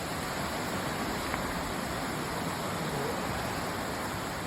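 Steady rushing of a waterfall and cascading creek water pouring over rock.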